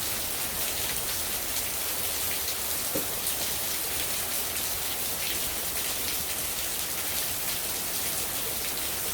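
Steady rain falling, an even hiss dotted with many small drop ticks, with one faint click about three seconds in.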